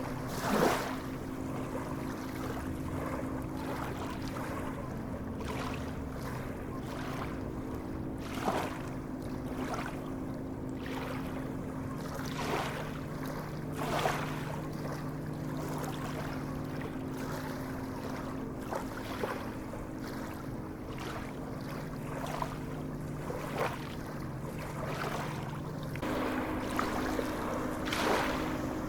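Sea waves washing and splashing in irregular surges every few seconds, over a steady low hum.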